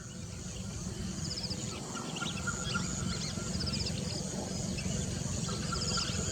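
Outdoor natural ambience: scattered short bird chirps and a couple of brief high trills of quick ticks over a steady low rumble.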